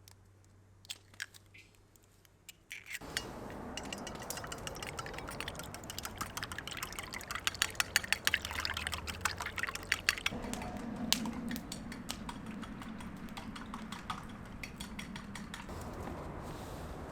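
Food sizzling and spattering in a hot frying pan over a wood fire, starting abruptly about three seconds in after a few light clicks, with dense crackling that eases after about ten seconds.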